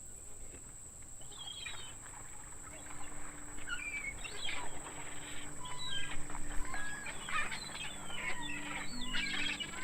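A flock of gulls calling, many short overlapping cries that grow busier and louder after the first few seconds.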